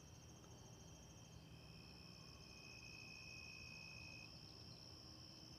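Faint, steady high-pitched trilling of insects, several pulsing trills at different pitches overlapping.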